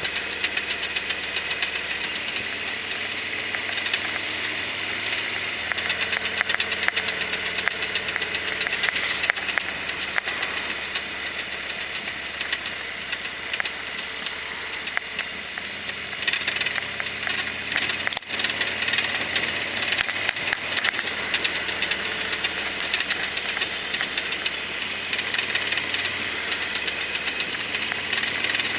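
Harley-Davidson Sportster XL1200R's air-cooled V-twin running, with a steady knocking rattle through it. This is the rattle the owner is chasing; a spacer fitted where the caliper support bolt seemed to touch the rear shock spring has not cured it.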